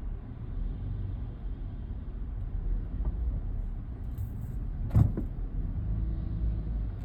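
A car's steady low rumble, with one sharp thump about five seconds in.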